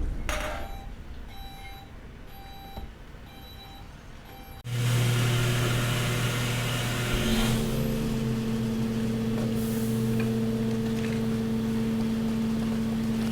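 A beeping alarm repeating about every two-thirds of a second. Then, about four and a half seconds in, the hydraulic waste compactor's power unit starts abruptly and runs with a steady hum.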